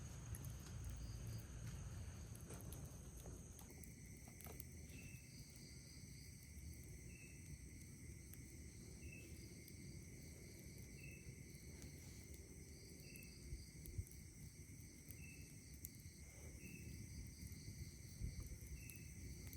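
Faint chorus of night insects such as crickets: steady high chirring, with another steady buzz joining a few seconds in and a short chirp repeating about every two seconds. A low hush of breeze lies beneath, with a couple of faint clicks near the end.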